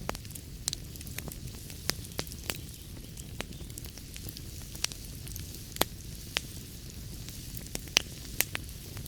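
Wood fire in a fireplace crackling: a steady low rumble and hiss of flames with irregular sharp pops and snaps, a few louder pops near the middle and end.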